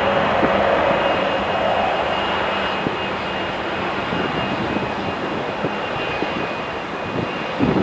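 Airliner's engines running in a steady rush with a faint high whine, slowly fading as the aircraft moves away.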